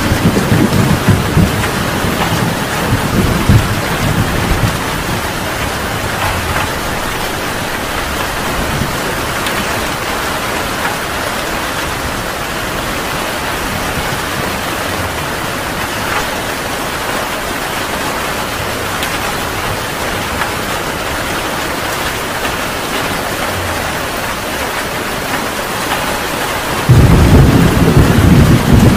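Heavy rain pouring steadily in a thunderstorm. Thunder rumbles at the start and dies away within a few seconds. Near the end a loud thunderclap breaks in suddenly and rolls on.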